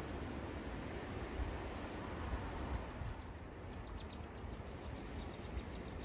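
A flock of sparrows singing, many short high chirps and thin held notes, with a low wind rumble underneath. The birder takes them for Savannah sparrows.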